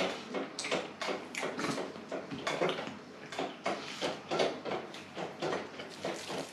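A person chewing a mouthful of lahmacun, a crisp Turkish flatbread pizza, in short irregular chewing noises about two to three a second.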